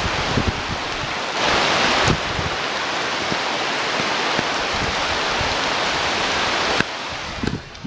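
Wind buffeting an outdoor nest-camera microphone: a steady loud rushing with low gusts and a stronger surge about two seconds in. It drops off suddenly with a click near the end.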